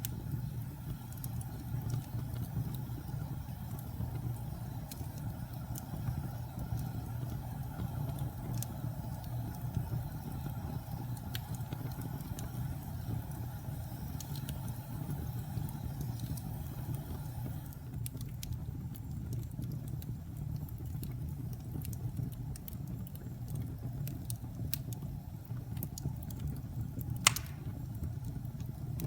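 Wood fire burning in a fireplace: a steady low rumble with scattered crackles, and one sharper pop near the end.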